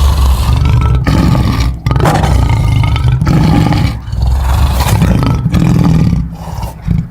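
Supergator monster roar sound effect: three long, loud, deep roars of about two seconds each, then a shorter one that fades out near the end.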